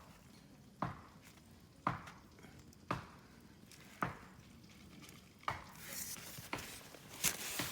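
Evenly spaced knocks, about one a second, five in a row. Near the end they give way to a busier stretch of rustling and quicker knocks.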